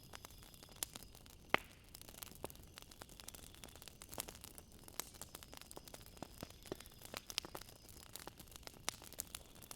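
Wood fire crackling, with irregular small pops and snaps; one sharper pop about a second and a half in.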